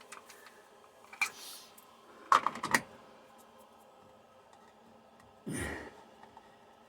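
Scattered small clicks and knocks of something being handled, with a tight cluster of sharp clicks about two and a half seconds in, and a short breath-like rush of noise later on.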